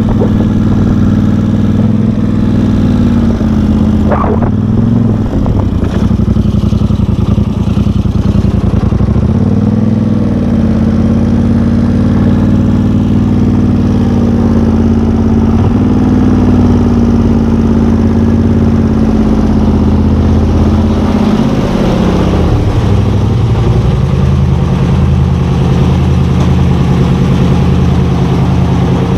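A vehicle engine running under way, its pitch rising and falling as the speed changes and easing back near the end.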